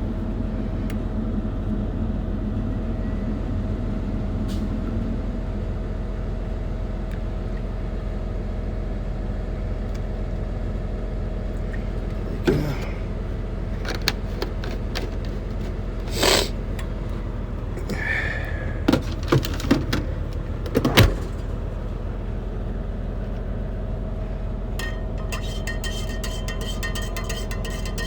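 Steady low hum of an idling truck engine. A few short knocks and clinks of things being handled come through about halfway in and again a little later.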